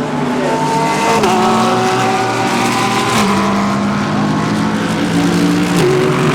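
Several GT3 race cars running at once with their engine notes overlapping, the pitch stepping up and down at gear changes a few times.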